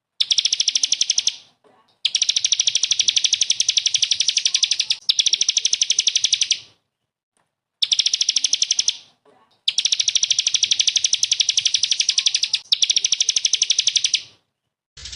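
A small songbird singing a rapid-fire 'tembakan' trill: a fast run of evenly repeated, high-pitched notes, given as several long bursts with short pauses between them.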